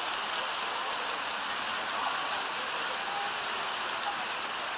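Steady rush of falling water from the waterfalls of a mountain creek, an even hiss with no breaks.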